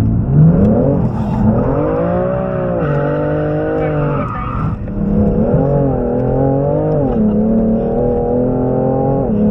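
Car engine revving hard as the car pulls away and accelerates. Its note climbs, drops and climbs again several times as it shifts up through the gears.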